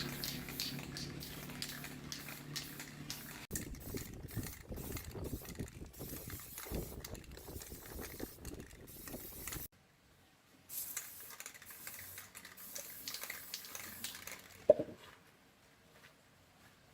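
Irregular clicking and rattling of hand tools working on metal, over a low steady hum that stops after a few seconds. The sound cuts off abruptly, the clicking starts again, there is one sharp click, and then it falls quiet.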